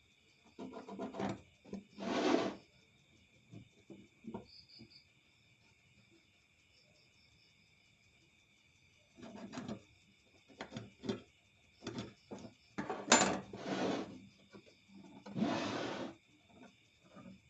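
Intermittent scraping and rubbing on wood in short, irregular strokes, clustered at the start and again from about halfway on. Crickets chirp steadily in the background.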